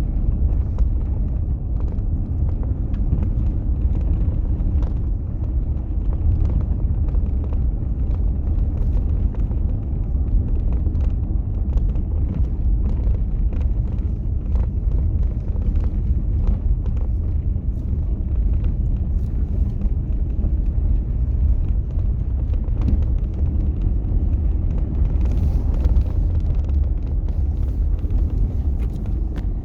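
Steady low rumble of a vehicle on the move, with faint crackles throughout.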